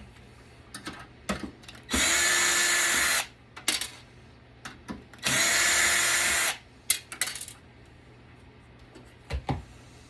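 A power drill/driver runs twice, each time spinning up with a short rising whine and running steadily for about a second, with small clicks and knocks of handling in between.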